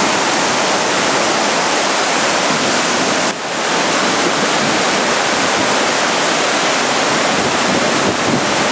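Rushing water of a river in flood, a loud, steady rush with a brief dip about three seconds in.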